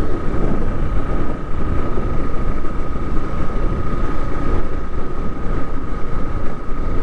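Yamaha Fazer motorcycle on the move, its engine running under a steady rush of wind on the microphone, with a thin steady whine above it.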